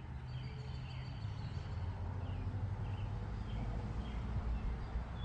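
Outdoor ambience: a steady low hum with scattered short, faint bird chirps over it.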